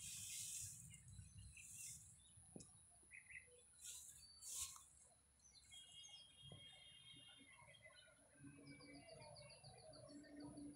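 Faint birdsong: two runs of fast, repeated high chirps, one in the middle and one near the end, with a few short hissing rustles early on over a faint steady high whine.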